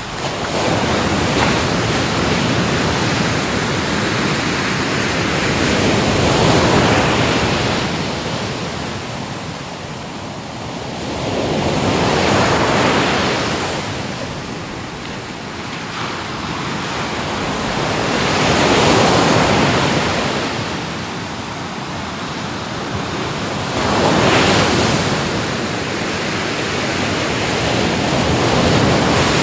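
Ocean waves breaking and washing in, a steady hiss of surf that swells with each wave roughly every six seconds.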